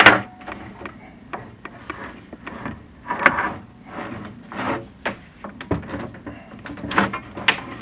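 Chimney inspection camera and its rods knocking and scraping against the flue walls as it is lowered down the chimney: irregular knocks and scrapes, the loudest right at the start.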